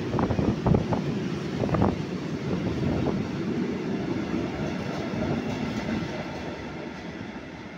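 Freight train rolling past close by: steady wheel-on-rail rumble with sharp wheel knocks in the first two seconds, gradually fading toward the end.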